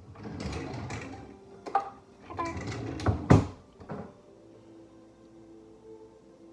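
Kitchen handling sounds: rustling and shaking with a few sharp knocks, the loudest a little over three seconds in, then quiet.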